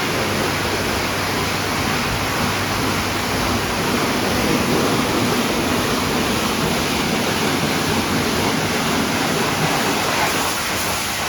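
WashTec automatic car wash machine spraying water over a car: a steady rushing hiss of spray with a low hum from its pumps beneath.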